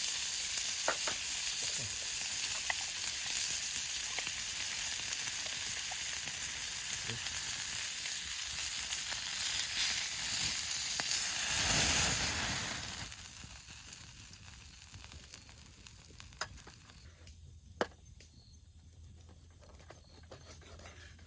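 Food sizzling in a hot frying pan, a steady hiss with small pops, which swells briefly and then dies away about twelve or thirteen seconds in, leaving a few faint clicks and knocks.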